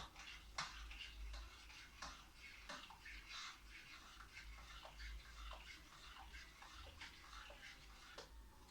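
Faint, irregular ticks and scrapes of a spoon stirring thick custard in a pot, over a low steady hum.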